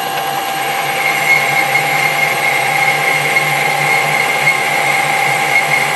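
Metal lathe running steadily with a constant whine and hum, boring a counterbore into the adapter out to the carriage stop. The level lifts slightly about a second in.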